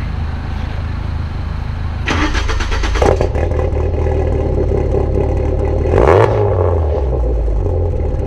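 Car engine running after a cold start, with a burst of engine noise about two seconds in and a brief rev with rising pitch about six seconds in.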